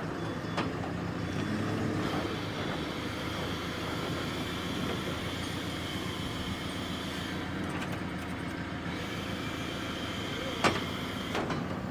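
Heavy truck engine running steadily while manoeuvring, with a sharp knock about ten and a half seconds in.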